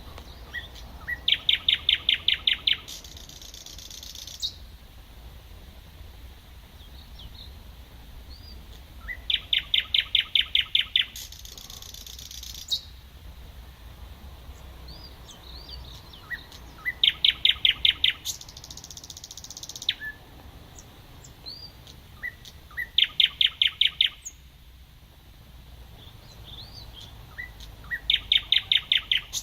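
Thrush nightingale singing: five song phrases a few seconds apart, each a fast run of loud, evenly repeated notes ending in a harsh rattling buzz, with faint short whistled notes between phrases.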